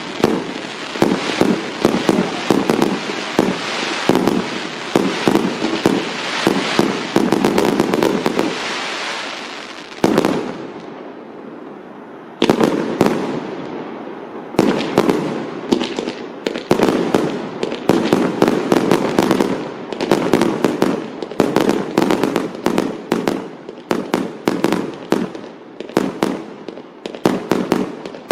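Firecrackers going off in fast, dense strings of sharp pops. About ten seconds in the popping thins out, then it restarts abruptly and loudly a couple of seconds later.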